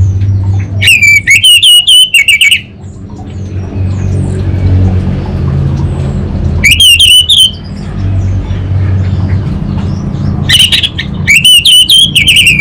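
Orange-headed thrush (anis bata) calling in three loud bursts of rapid, stuttering high notes: about a second in, around the seven-second mark, and again near the end. A steady low hum runs underneath.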